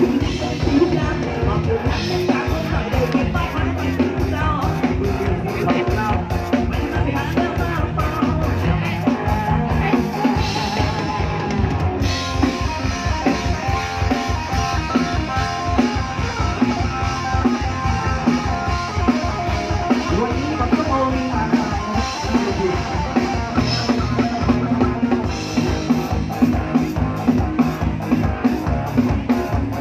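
Live band music with drum kit, guitar and a steady beat, with a voice singing over it.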